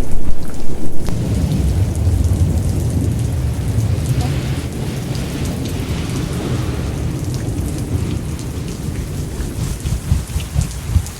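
Thunderstorm: steady heavy rain with a long low rumble of thunder through the first half that slowly fades, and scattered drops pattering near the end.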